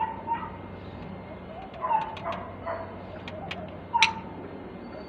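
A bird calling in short, separate notes, with a few light clicks in between.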